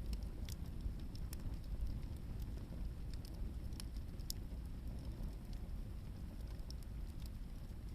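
Hardwood firewood burning in a bonfire: scattered sharp crackles and pops, a dozen or so, over a steady low rumble.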